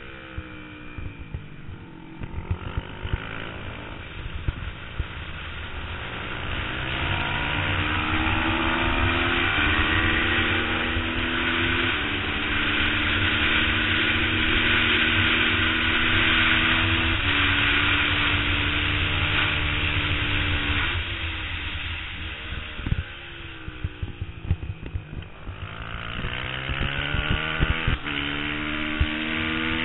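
Twin-cylinder race motorcycle engine heard onboard, accelerating hard with the revs climbing and stepping through gear changes, then easing off as it slows for a corner about two-thirds of the way in, and picking up again near the end. Wind rumble on the bike-mounted microphone runs under it.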